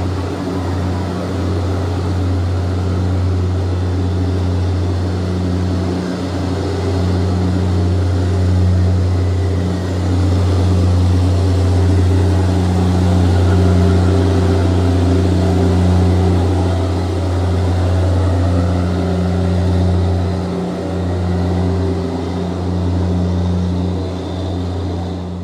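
Indian Railways express train's coaches rolling past as it departs: a steady low hum with a continuous rumble of wheels on track.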